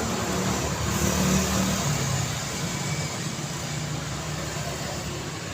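Road traffic: a car engine and tyre noise passing close, loudest about a second in and then slowly fading, over steady traffic noise.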